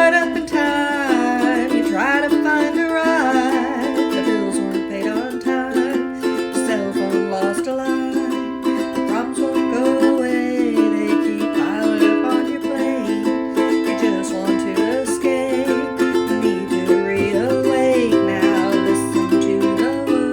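A ukulele strummed steadily as accompaniment, with a woman's voice singing over it.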